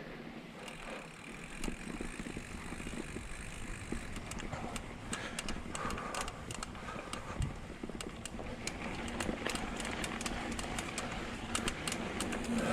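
Vitus Sommet mountain bike rolling along a dirt trail: steady tyre noise with frequent sharp clicks and rattles from the bike, and a single thump about seven seconds in.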